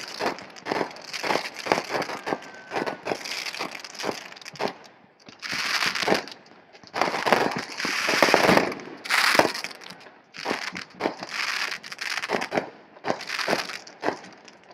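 Fireworks crackling in rapid, irregular pops, with a denser, louder stretch of crackle and hiss through the middle.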